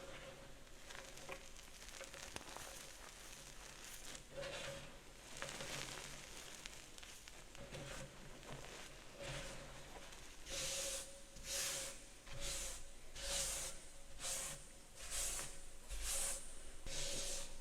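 Gym chalk being crumbled and crushed into powder: fine crackling at first, then from about ten seconds in a run of crunches about one a second.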